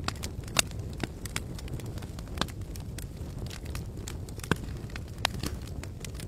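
Campfire burning: sharp, irregular crackles and pops of burning wood over a steady low rumble.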